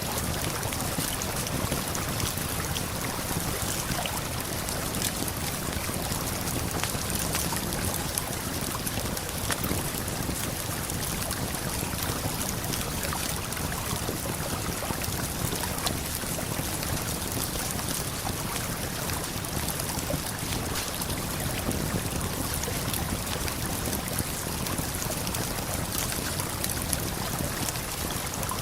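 Steady rushing of a waterfall and flowing river, with scattered small crackles and pops of a campfire throughout.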